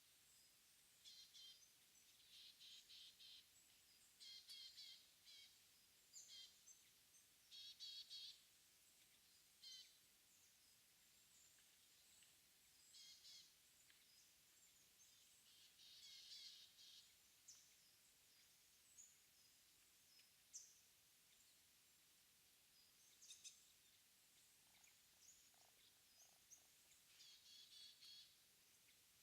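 Faint early-morning songbird calls in mountain forest: many short, high chirps and trilled phrases, one every second or two. No Mugimaki flycatcher voices are among them.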